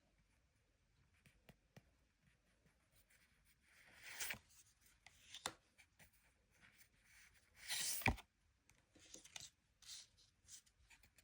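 Faint, scattered rustling and scraping as cards and packaging are handled, with louder rustles about four seconds in and around eight seconds in.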